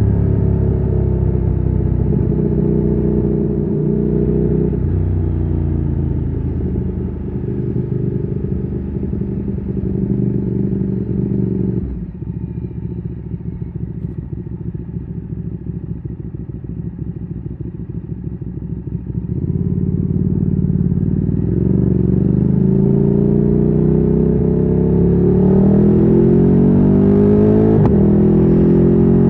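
Ducati Streetfighter 848's L-twin engine through a Termignoni exhaust, heard from the rider's seat while riding. The engine note steps up and down through gear changes, drops to a quieter, steady note for several seconds in the middle, then climbs again with rising revs near the end.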